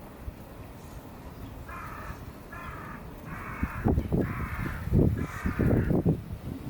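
A crow cawing five times in a row, each caw harsh and about half a second long. Low rumbles of wind on the microphone come in over the last few caws.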